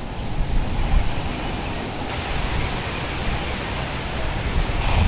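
Wind buffeting the microphone: a steady rushing noise with a rumble in the lows that rises and falls.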